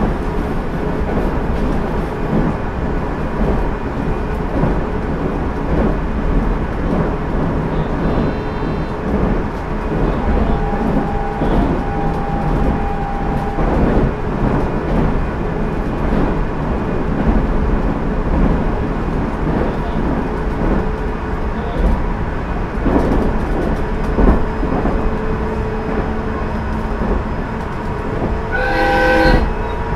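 Onboard running sound of a JR Central 373 series electric train, heard in motor car KuMoHa 373-13: a steady rumble of wheels and running gear with frequent clicks from the rails. A steady whine runs for a few seconds about a third of the way in, and a brief pitched ringing sound comes near the end.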